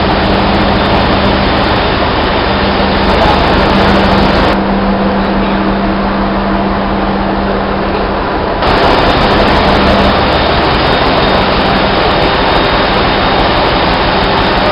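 Loud, steady machinery din with a constant low hum, typical of running engine-room plant; it briefly softens in the middle before coming back.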